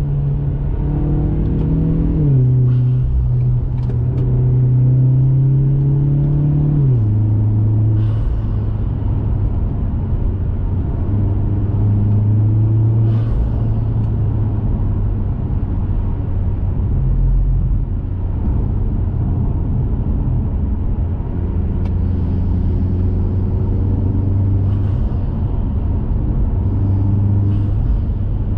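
2021 Mazda 3 Turbo's 2.5-litre turbocharged four-cylinder, breathing through an aftermarket cat-back exhaust, under way. Its pitch drops in two quick steps, about two and seven seconds in, as it shifts up, then it settles into a steady low drone at cruise.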